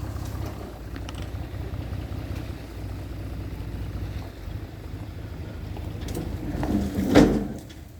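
Low, steady rumble of a heavy diesel machine's engine at work. A louder surge of noise builds about six and a half seconds in and peaks just after seven seconds.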